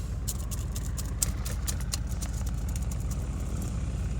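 Car engine idling steadily, a low even rumble heard from inside the parked car, with scattered light clicks over it.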